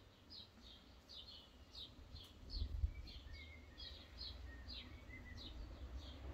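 A small bird chirping steadily in the background: short, high, falling chirps about three a second. A dull low thump about two and a half seconds in.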